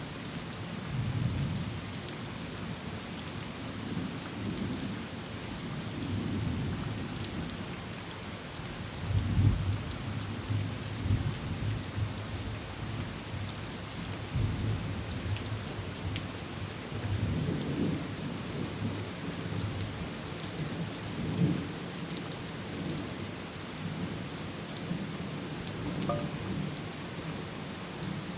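Heavy rain drumming steadily on a tin roof, with several low rolls of thunder rumbling beneath it; the loudest roll comes about a third of the way through.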